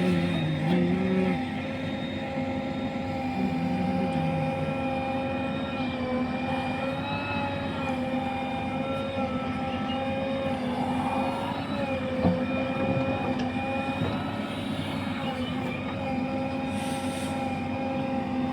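Heavy diesel engine of a tractor or loader running steadily, with a constant whining tone over the engine note.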